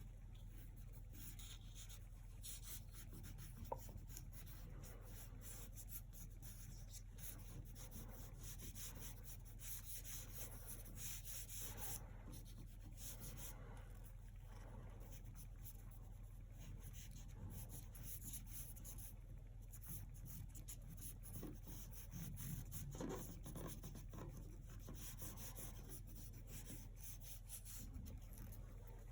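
Paintbrush strokes brushing acrylic paint across a surface: faint, repeated scratchy swishes, over a steady low electrical hum.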